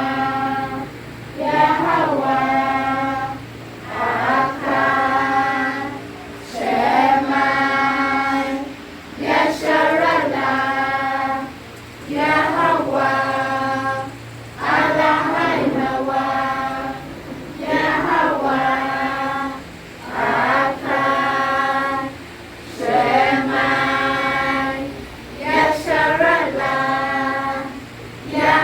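Voices singing a short chant-like phrase over and over, one phrase about every two and a half seconds, with brief gaps between them.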